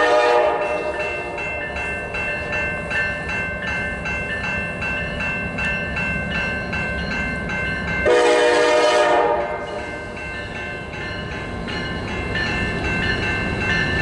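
Norfolk Southern freight train rolling past with a steady low rumble of its cars. A train horn blast ends just at the start, and another loud horn blast comes about eight seconds in and lasts just over a second. A bell rings in an even rhythm between the horn blasts.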